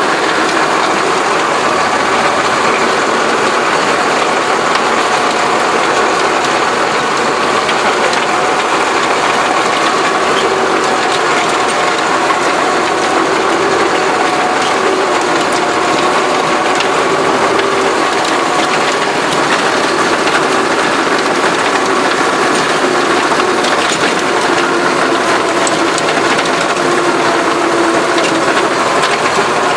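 Massey Ferguson tractor working the soil, its engine running steadily under load beneath a dense, continuous mechanical clatter with many fine rapid clicks.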